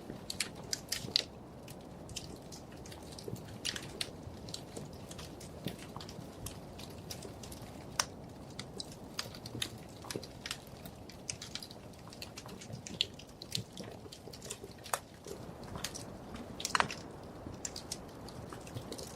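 Wood fire crackling in a fireplace: irregular sharp snaps and pops over a steady low rush of flame, with a few louder pops, one about eight seconds in and a cluster near seventeen seconds.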